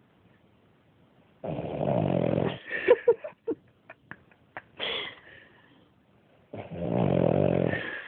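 A dog snoring: two long snores about five seconds apart, with a few short sharp sounds between them.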